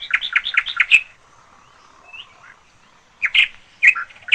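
Birds chirping: a quick run of about eight short chirps in the first second, then a pause, then a few louder chirps near the end.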